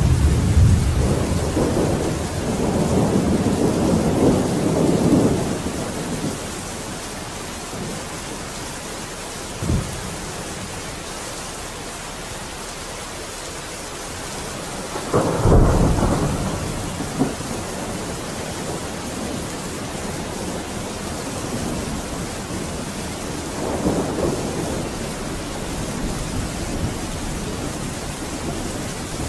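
Thunderstorm: steady rain with thunder. A rolling rumble fades over the first six seconds, a short sharp crack comes near ten seconds, the loudest clap about fifteen seconds in, and a softer roll near the end.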